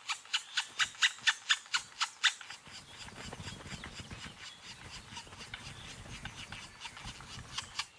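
Black woodpecker chicks calling at the nest hole in a fast, even series of short sharp calls, about five or six a second, while being fed. About two and a half seconds in, the calls give way to a softer scratchy rustling.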